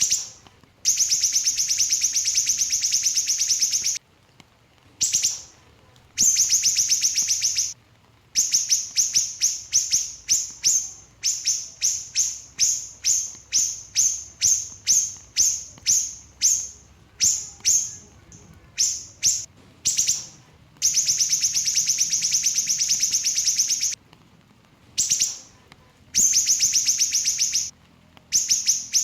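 Small siri-siri bird singing in high, fast trills, some held for about three seconds, alternating with runs of short, sharp repeated notes about two a second.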